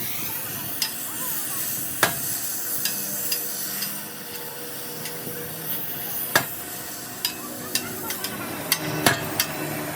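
Metal repair work on a truck axle: a steady sizzling hiss with sharp knocks scattered through it, the loudest about two, six and nine seconds in.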